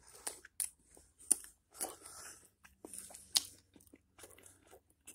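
A person biting and chewing crunchy food close to the microphone: irregular crunches and clicks, with a few sharper ones standing out.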